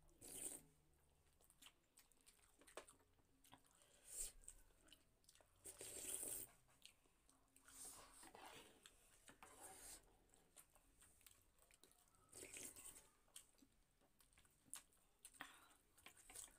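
Faint close-up eating sounds: people chewing and biting chicken and noodle soup, in short scattered bursts a second or a few seconds apart.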